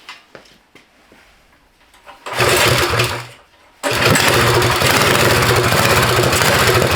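Fully built Mega Moto 212 mini bike's single-cylinder engine being pull-started with a fresh spark plug. The first pull fires it for about a second before it dies. The second pull, just after, catches and keeps it running steadily.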